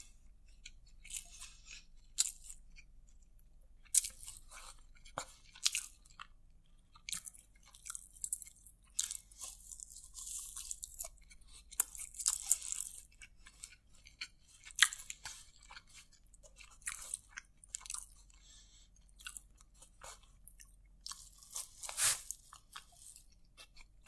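Close-miked chewing of a mouthful of boneless chicken biryani eaten by hand: irregular wet mouth clicks and soft crunches, some louder bursts around the middle.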